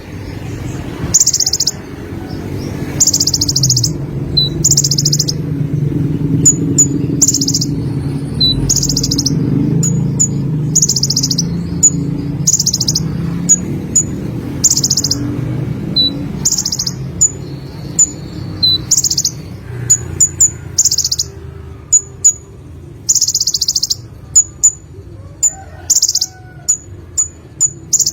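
Sunbird (konin) singing: high, rapid buzzing trill phrases repeated every second or two, with short sharp chips between the phrases in the second half. A steady low hum runs underneath.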